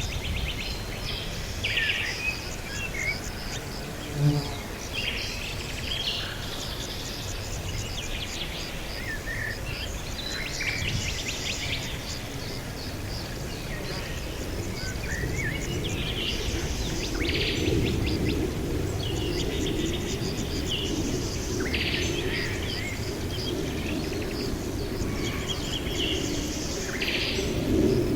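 Several wild birds chirping and calling in short, overlapping phrases and trills, over a steady low background rumble. A brief low thump sounds about four seconds in.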